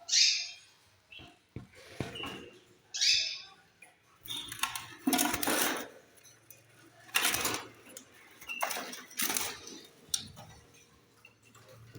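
Pet lovebirds calling in an aviary: short, shrill, falling chirps near the start and about three seconds in, then several loud bursts of rustling noise, interspersed with quieter chatter.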